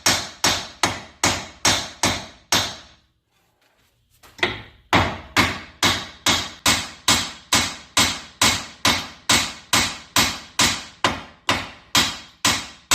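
Repeated hammer blows on metal, about two and a half strikes a second, each ringing briefly, with a pause of about a second near the start before the strikes resume. The hammering is to break a seized front strut loose on the car's suspension.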